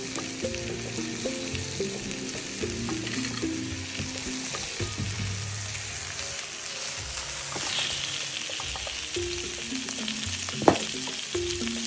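Food frying in hot oil, sizzling steadily, with a sharp tap near the end. Background music with a simple melody plays underneath.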